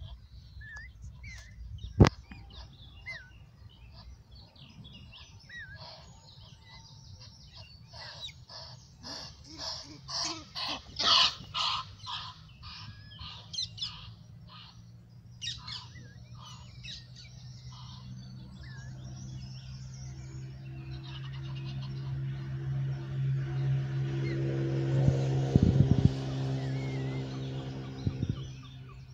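Small birds chirping and singing, with a fast run of loud chirps about a third of the way in, and a sharp click about two seconds in. In the second half a low, steady droning hum swells up and then fades near the end.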